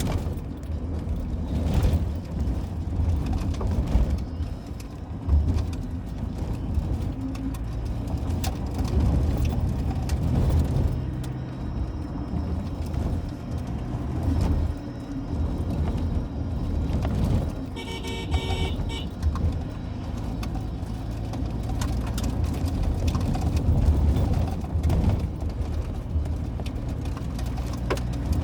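A car driving along the road, with a steady low rumble of engine and tyres and occasional bumps. A vehicle horn honks once, for about a second and a half, roughly two-thirds of the way through.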